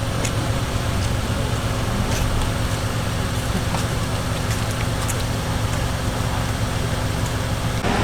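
Steady running of a car engine idling, with a few faint clicks over it.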